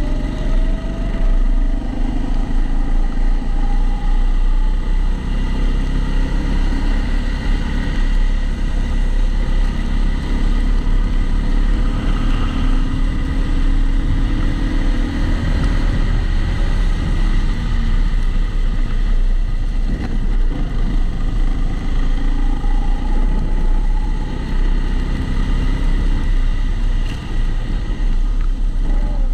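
Kombikart Eco kart's engine heard onboard, its pitch rising and falling as it accelerates and slows through the lap, muffled through the GoPro's housing.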